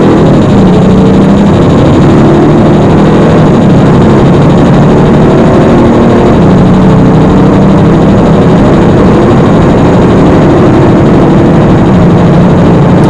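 Audi S4 TDI's 3.0-litre V6 turbodiesel accelerating hard at full throttle, heard from inside the cabin. The engine note climbs and drops back at each automatic upshift as the car pulls up through second to sixth gear.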